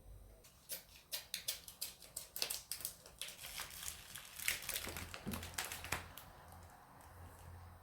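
Crinkling and crackling from something being handled in the kitchen: a quick, irregular run of sharp crackles lasting about five seconds, dying away about six seconds in.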